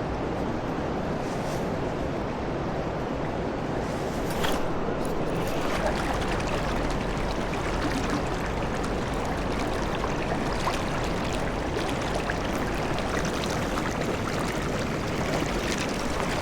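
Steady rushing of a flowing river, with a few faint ticks over it.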